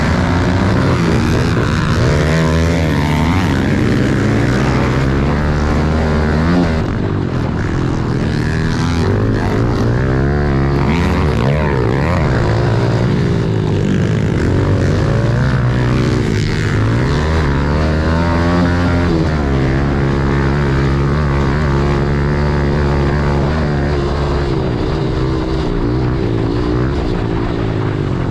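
Small four-stroke pit bike engine racing around a motocross track, its revs rising and falling over and over as the throttle opens and closes.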